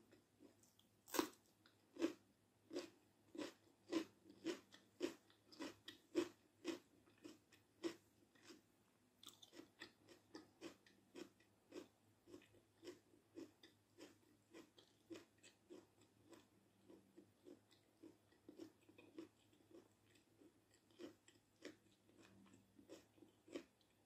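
A crisp bite into a raw red bell pepper strip about a second in, then steady mouth-close crunching and chewing at a little under two chews a second, softening after about eight seconds.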